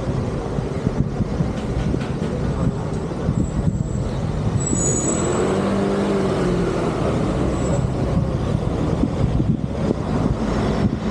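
Motor vehicle engine running with road noise, its pitch rising and falling about halfway through.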